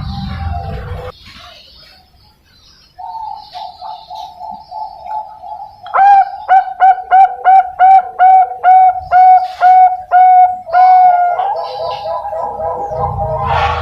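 Young zebra dove (Bangkok-strain perkutut) cooing: a soft fast trill of notes, then a loud run of about a dozen short clipped coos at roughly three a second, ending in another fast trill. Background music plays at the start and comes back near the end.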